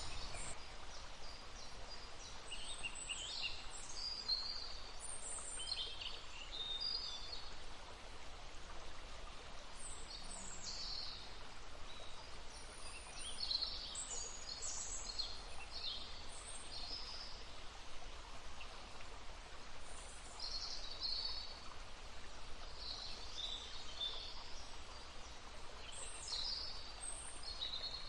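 Small songbirds chirping and trilling in short high phrases over the steady babble of a stream.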